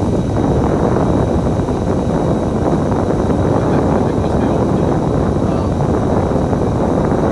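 Steady engine and road noise of a moving bus, heard from inside the cabin.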